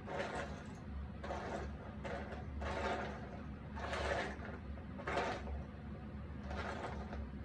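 Cardboard jigsaw puzzle pieces handled and slid across a table, in about six short scraping bursts roughly a second apart, over a steady low hum.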